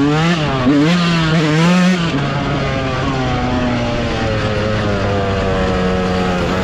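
Dirt bike engine running, its pitch rising and falling with the throttle for about the first two seconds, then holding a steady pitch.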